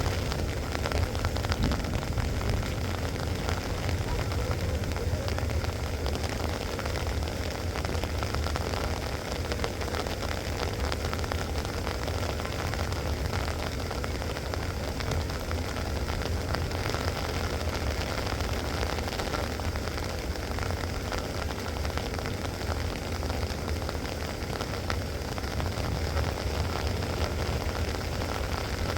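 Rain falling steadily as a dense, even patter, with a low rumble underneath.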